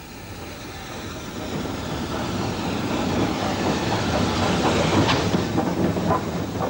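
Steam train on a heritage line approaching, its running noise growing steadily louder to a peak about five seconds in, with wheels clattering over the rail joints.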